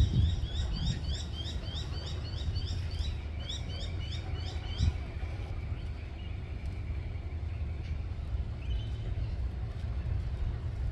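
A bird calling in a rapid series of short rising chirps, about four a second, that fade out about five seconds in, over a steady low rumble.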